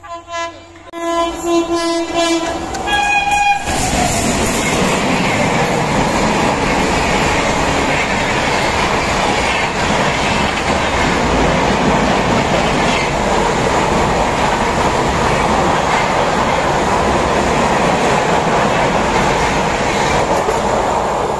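Fast Indian Railways train running through a station. Its horn sounds for the first few seconds, switching to a higher note about three seconds in. Then the loud, steady rush and rattle of the train passing at speed.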